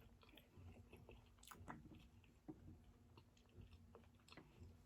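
Faint chewing: a person eating, with scattered small mouth clicks and a few slightly louder bites.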